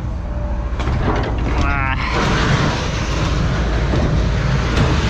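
A vehicle engine runs with a steady low rumble. About two seconds in, a loud, steady rushing noise starts and holds.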